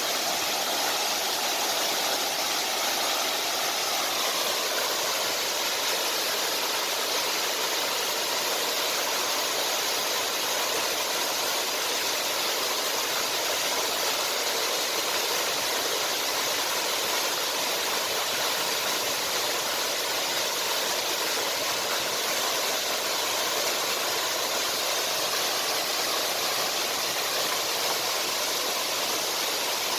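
Waterfall: falling water rushing and splashing in a steady, even roar of noise.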